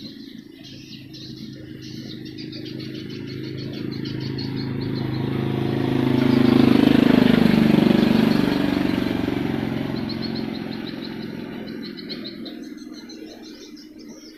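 A motor vehicle passing by: its engine noise builds up, is loudest about halfway through, drops in pitch as it goes past, and fades away. Rapid, high chirping trills of swiftlets are heard at the start and again near the end.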